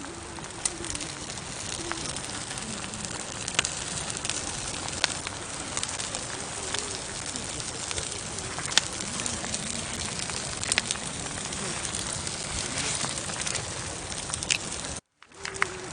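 Campfire burning: a steady hiss of flames with scattered sharp crackles and pops from the burning wood. The sound cuts out briefly about a second before the end.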